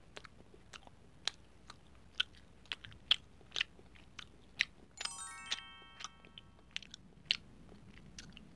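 Close-up sound of a chocolate spoon being bitten and chewed: a dozen or so separate sharp snaps and crunches. About five seconds in, a short run of bell-like notes steps down in pitch and fades out within about two seconds.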